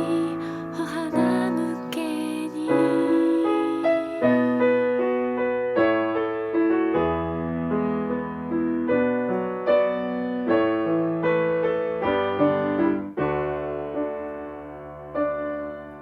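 Piano playing a slow chordal accompaniment, a new chord struck about every second and left to ring, growing quieter near the end.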